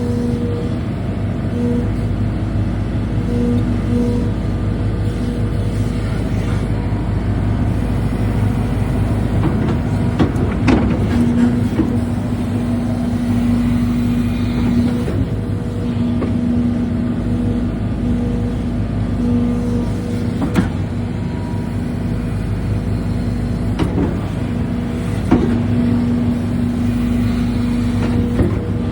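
Hidromek 220 excavator's diesel engine and hydraulics running steadily under work, with a steady humming tone that drops out and comes back every few seconds. A few sharp knocks stand out, about ten seconds in, around twenty seconds and twice near the end.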